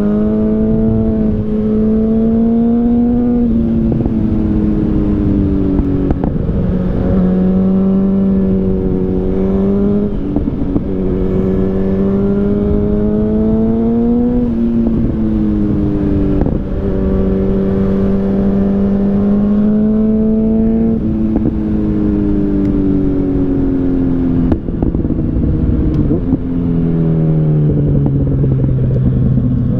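Yamaha FZ8's inline-four engine, breathing through an SC Project Oval Carbon aftermarket exhaust, pulling under acceleration on the road. Its pitch climbs steadily and drops sharply at each upshift, repeating through several gear changes, then falls lower near the end as the bike slows.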